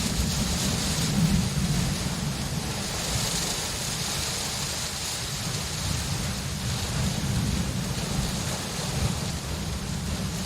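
Steady rain falling, an even hiss with a continuous low rumble of thunder underneath.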